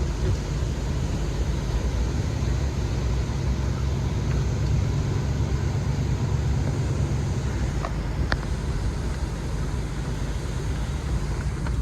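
A 1989 Ford Bronco XLT driving over beach sand, heard from inside the cab: a steady low rumble of engine and tyre noise, with a couple of faint ticks about eight seconds in.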